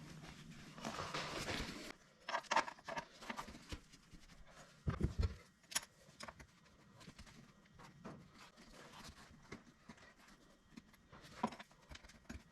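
Handling noises at a workbench: about a second of rustling, then scattered knocks and taps, the loudest a few seconds in.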